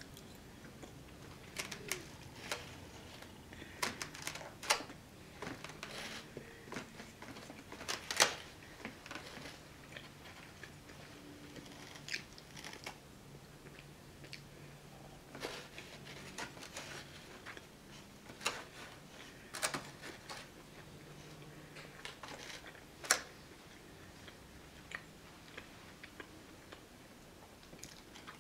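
Close-up chewing of a mouthful of liver, onions and vegetables, with scattered sharp clicks and taps of a fork against the foam takeout box, two of them louder than the rest.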